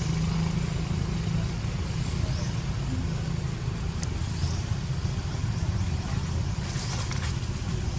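A steady low rumble with a few faint, short high chirps.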